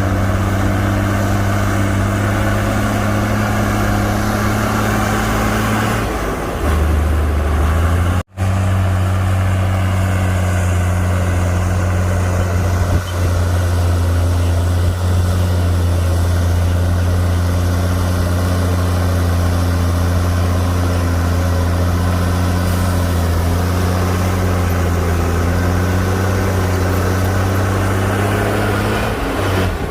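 Heavy diesel engine of earthmoving machinery running steadily with a low, even note. The note dips briefly about six seconds in, and the sound cuts out for an instant a little after eight seconds.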